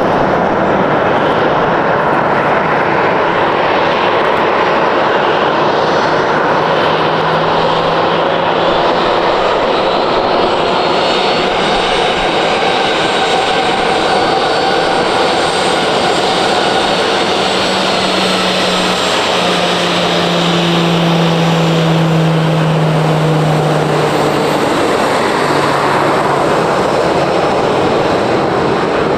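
Jet airliner's engines passing close by: a loud, steady rush with engine tones that slowly fall in pitch in the second half.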